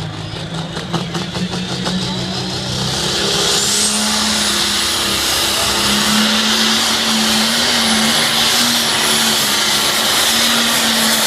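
Old John Deere tractor engine working hard under load as it pulls a sled down the track. The note rises and gets louder over the first few seconds, then holds steady at full power with a loud rushing noise.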